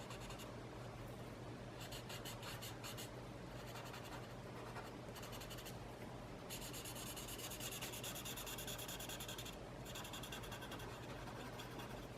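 Fine-tip drawing pen scratching on sketch paper in runs of quick short strokes, with pauses between, the longest run in the second half.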